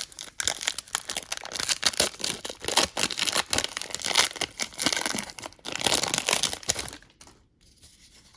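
A trading-card pack wrapper being torn open and crinkled by hand, a dense crackling that runs for about seven seconds and then stops.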